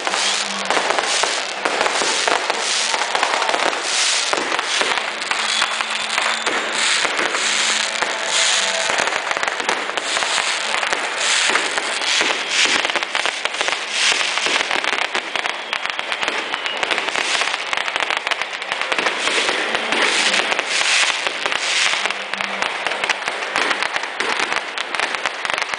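Fireworks and firecrackers going off in a dense, unbroken crackle of rapid sharp pops.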